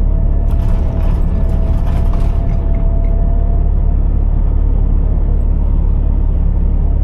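Scania R480 truck's diesel engine running with a steady low rumble, a faint steady whine stopping about four seconds in, and a brief clatter in the first couple of seconds.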